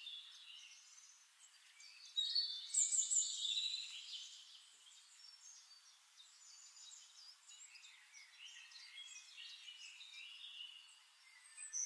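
Birds chirping and calling in the background, a string of short high-pitched chirps and glides that are loudest about two to four seconds in and fainter after that.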